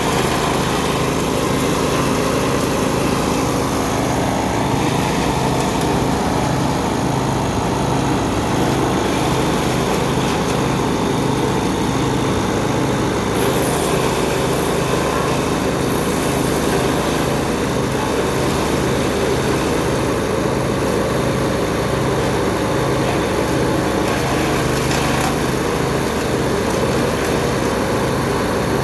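Small engine-driven shredder and wood chipper running steadily at a constant speed.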